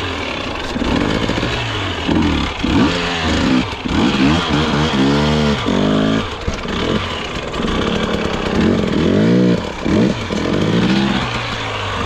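Dirt bike engine revving hard in repeated rising and falling surges as the rider fights for grip, with the rear end kicking out while the bike struggles and gets stuck.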